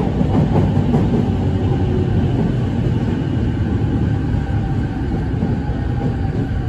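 Running noise inside a Sotetsu 10000 series commuter car, moving at low speed through a station: a steady rumble of wheels and motors with faint tones from its Mitsubishi IGBT VVVF inverter drive.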